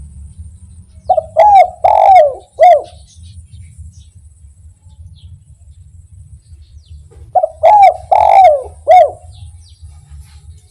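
Spotted dove (derkuku) singing its cooing song twice, each phrase a run of about four coos, with a short last note ending the phrase. A low steady hum runs underneath.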